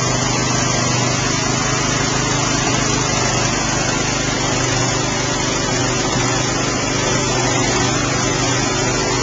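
Small Briggs & Stratton single-cylinder engine of a lawn tractor running steadily with an even hum.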